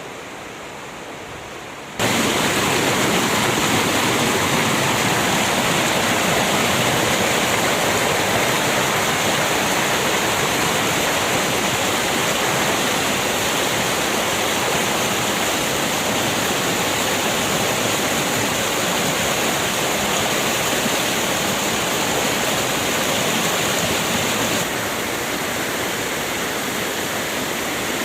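Swollen river in spate after rain and snowmelt: steady loud rushing of fast water. It jumps louder suddenly about two seconds in and drops slightly near the end.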